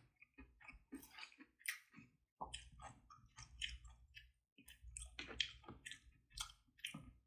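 Close-miked chewing of a ssam wrap of boiled pork: quick, irregular wet smacks and clicks of the mouth, with soft crunches.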